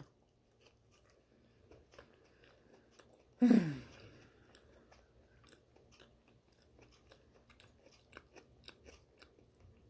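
Close-up chewing of a bagel topped with chickpea salad: a bite, then soft wet clicks and light crunching as it is chewed with the mouth closed. About three and a half seconds in, a short falling 'mmm' hum of enjoyment.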